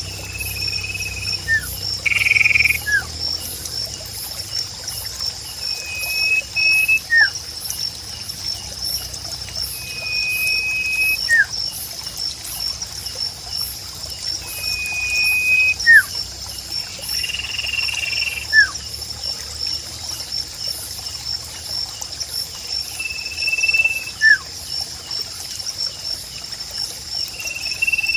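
Sirpu bird calling over and over: a held high whistle followed about a second later by a short sliding note, the pair repeating every few seconds. Beneath it run a steady insect trill and trickling water.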